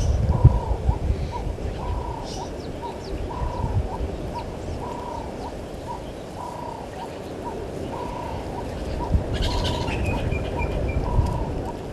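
Doves cooing over and over, a steady repeated phrase of drawn-out and short notes at a low, even pitch. Another bird gives high, brief chirps a couple of seconds in and again near the end, over a low rumbling background.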